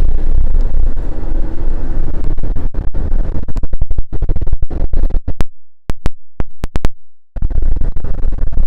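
Loud low rumbling noise that breaks up into rapid stutters and brief complete dropouts about halfway through, then comes back steady near the end.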